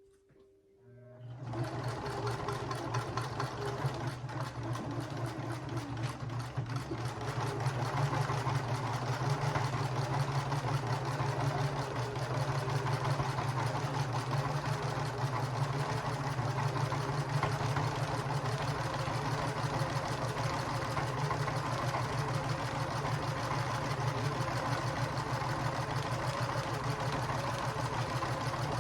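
Domestic sewing machine running steadily, stitching rapidly as it quilts through layers of a small quilt. It starts about a second in and runs a little louder from about seven seconds in.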